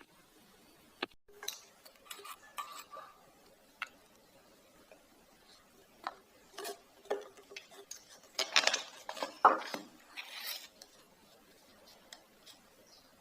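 Light clicks and clinks of a syringe, a glass tumbler and a small sealed battery being handled while distilled water is drawn up and squirted into the battery cells. The clinks come in scattered ones and twos, with a busier, louder run of clicks and scraping near the end.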